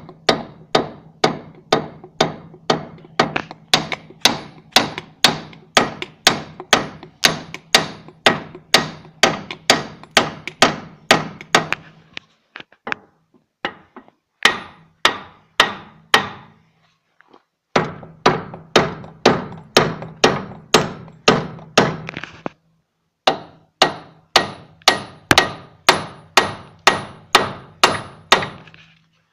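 Hammer blows on the front hub assembly of a 1989 Volkswagen Golf Mk2, striking about two to three times a second with short ringing after each. A few brief pauses break the blows. The hammer stands in for a puller, knocking a stuck, never-removed part loose.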